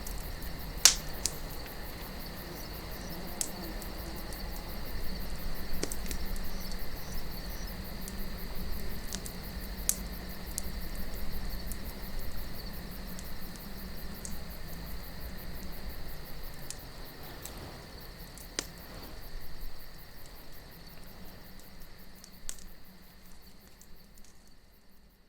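Wood campfire crackling, with occasional sharp pops, over a low rumble of wind and a steady high chirring of crickets. The whole mix fades out near the end.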